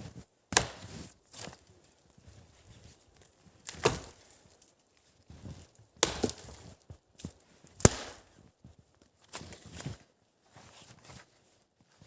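Wood being chopped or split with a blade: about half a dozen sharp blows at irregular intervals, the hardest one near the end.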